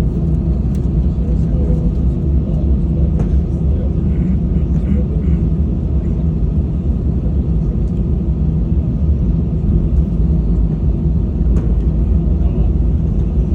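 Airbus A320 cabin noise: a steady low rumble of the engines and airframe with a faint even hum, unchanging throughout, as the airliner rolls on the ground.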